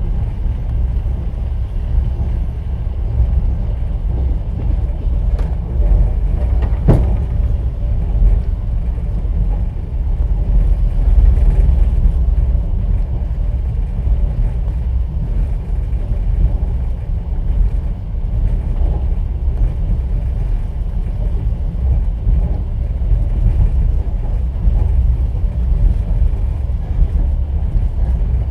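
Steady low rumble of a moving passenger train heard from inside an open-plan sleeper carriage, with one sharp knock about seven seconds in.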